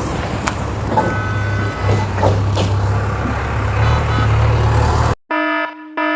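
Heavy vehicle engine running steadily with a low hum and some scraping noises. About five seconds in it cuts off abruptly and a pulsing beep tone sounds, on and off.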